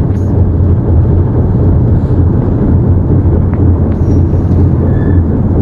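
Diesel locomotive engine running steadily, heard loud from inside the cab as a dense, even low rumble and hum.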